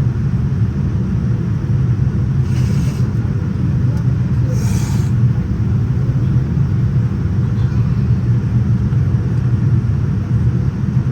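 Steady low rumble of airflow and engine noise inside the cabin of a Boeing 787-9 airliner in flight, with two brief hisses a couple of seconds apart.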